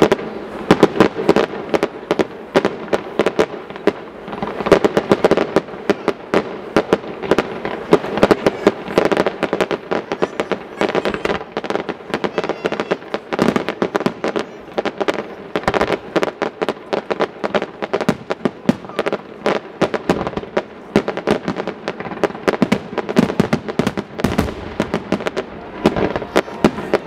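Aerial firework shells bursting in rapid succession: a dense, continuous run of bangs and crackles, several a second, with no let-up.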